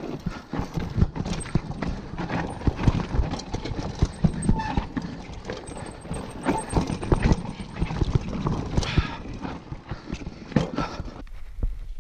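Mountain bike rattling and clattering over rough, rocky trail: a dense run of irregular knocks and bangs that stops suddenly near the end.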